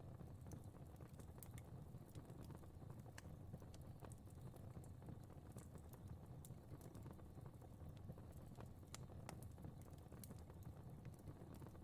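Faint crackling fire: irregular sharp snaps and pops, several a second, over a low steady rumble.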